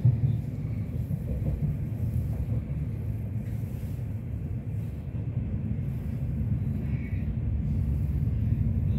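Electric commuter train running steadily, a low rumble of wheels on the track heard from inside the carriage.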